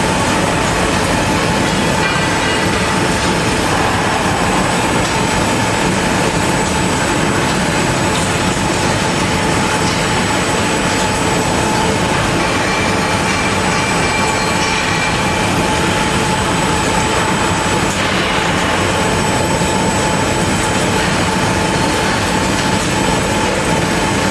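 Portable milling machine cutting a steel rail: steady, dense machining noise with a constant whine running through it.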